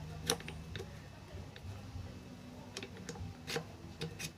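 About half a dozen sharp, light clicks and taps, scattered unevenly, from small sewing machine parts being handled and fitted into the machine.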